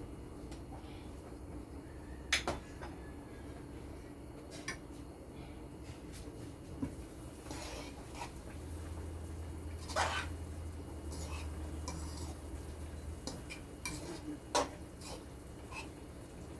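A utensil clinking and scraping against a cooking pot in scattered strokes, with a few sharper clinks about two seconds in, around the middle and near the end, over a steady low hum.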